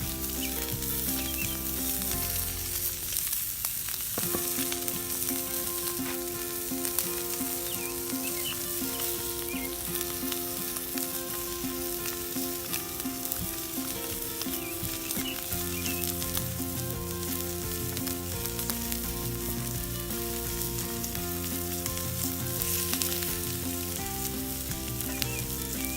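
Thick bison steak sizzling steadily in a campfire frying pan, with background music playing over it.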